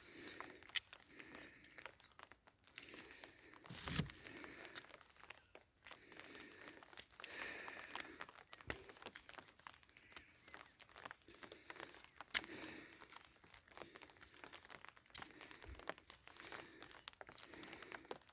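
Faint crinkling and rustling close to the microphone, with scattered clicks and a soft thump about four seconds in and another near the end.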